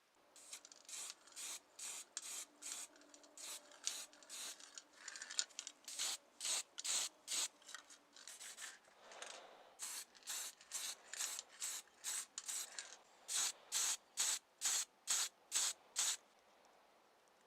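Hand sanding of a small model car part: quick back-and-forth rubbing strokes, about two to three a second, with a short pause near the middle and another later on.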